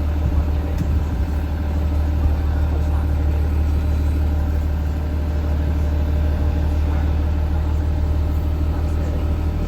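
Diesel engine of a 2023 IC CE school bus running steadily, a low, even drone heard from on board the bus.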